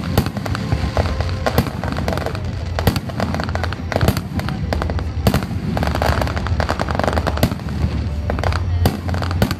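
A fireworks display in rapid succession: shells bursting one after another with sharp bangs and crackle, over a steady low rumble. Music plays underneath.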